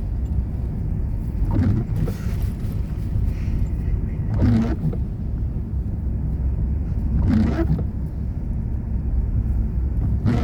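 Steady low rumble of a moving vehicle's road noise, with a brief louder swell about every three seconds.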